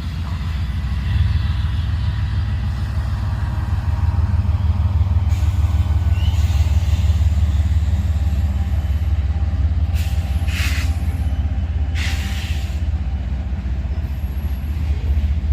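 Diesel freight locomotive running close by with a heavy, steady, throbbing rumble. Two short bursts of hiss come about two-thirds of the way through.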